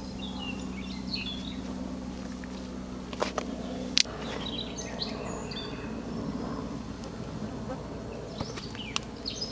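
Small birds chirping and calling in the forest, with a steady low hum that stops about four seconds in. A few sharp clicks or knocks sound, the loudest about four seconds in.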